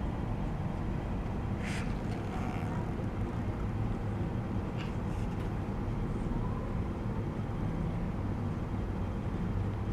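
Steady low background rumble, with a few faint, brief rustles about two seconds and five seconds in.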